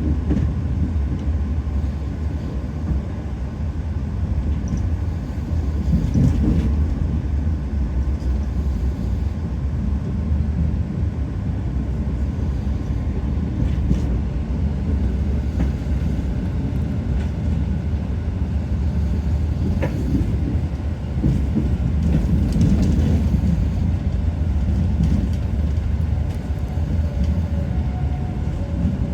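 Moving passenger train: a steady low rumble of the running coach on the rails, with a few short sharp clicks.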